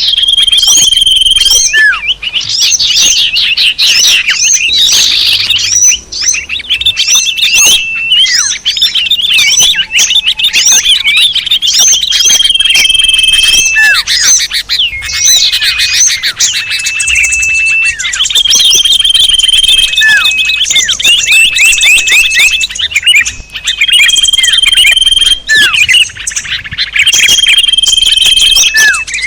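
Many small songbirds calling over one another in a dense chorus, with repeated short steady whistles and many quick downward-sweeping chirps. It is a mixed lure recording of various small birds, played to attract birds.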